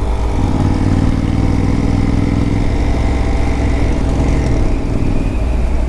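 Honda CTX700's parallel-twin engine running at a steady note while the motorcycle is ridden, over a constant low rumble.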